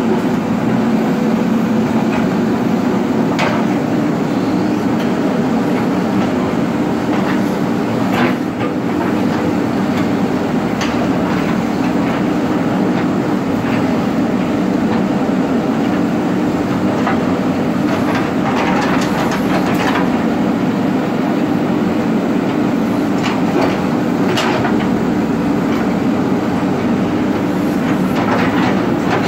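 Diesel engine of a JCB earth-moving machine running steadily under load, with occasional sharp knocks and clanks from the machine's working parts.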